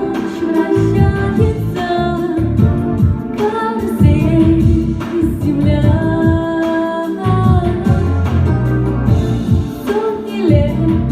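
A female vocalist singing a melody with long held notes over a pop backing track.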